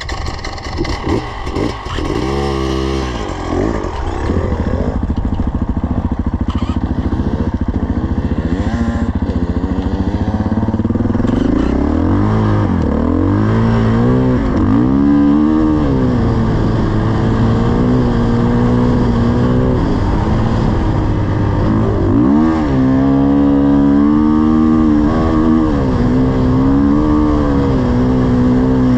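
500 cc dirt bike engine running under load through soft sand, its note rising and falling as the throttle is opened and eased, with sharper climbs in revs about halfway through and again later.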